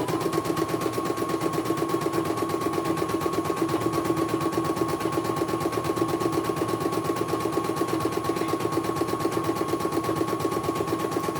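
Computerized embroidery machine stitching at speed: a fast, even needle rhythm over a steady motor whine. The whine steps up slightly at the start and drops back near the end as the running speed changes.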